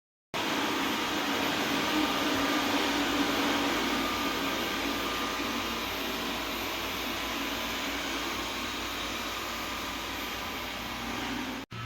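Robot vacuum cleaner (Xiaomi Mijia Mop P) running, a steady suction noise with a faint low hum. It starts abruptly just after the beginning and cuts off suddenly near the end.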